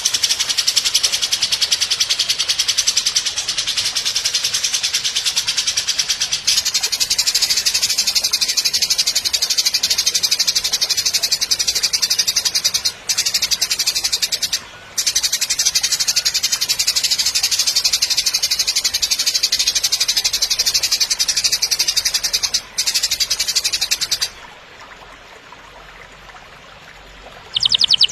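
Harsh, very fast buzzing rattle in long runs with a few brief breaks: the rough 'kasar' call of a white-rumped shama (murai batu) tutoring recording. It stops well before the end, and a clear whistled song begins near the very end.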